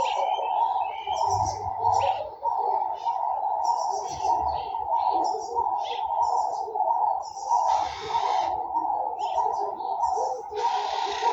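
Garden birds chirping and calling over a continuous mid-pitched chattering chorus, with two brief bursts of rushing hiss about eight and eleven seconds in.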